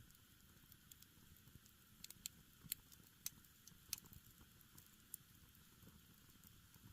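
Small wood campfire crackling quietly, with scattered sharp pops from the burning firewood, a cluster of them in the middle.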